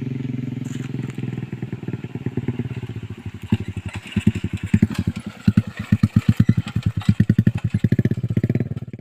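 Yamaha Jupiter MX single-cylinder four-stroke motorcycle engine, fitted with a PE28 carburettor and an aftermarket exhaust, running. About three seconds in, the exhaust note turns into loud, rapid, evenly repeating pulses. The sound cuts off abruptly at the end.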